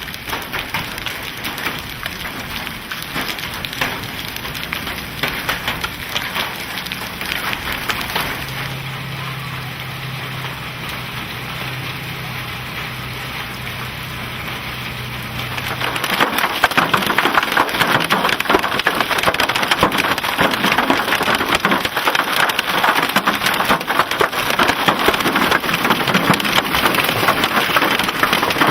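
Hail and rain pelting a vehicle in a dense, continuous rattle of hard strikes, turning heavier and louder a little past halfway.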